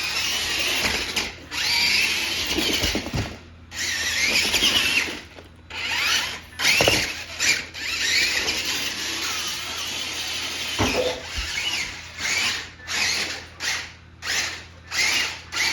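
Small electric motor and gears of a toy monster truck whirring in bursts, the pitch wavering up and down as it speeds and slows. The bursts are long at first and become short and quick, about two a second, in the last few seconds.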